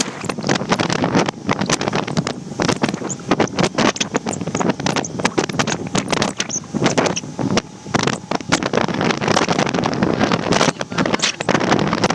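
Wind buffeting the camera's microphone in loud, irregular gusts, with many sharp crackles.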